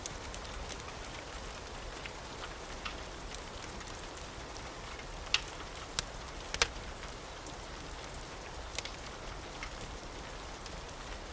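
Steady rain falling, with scattered sharp crackles and pops from a wood fire; a few louder pops come about halfway through.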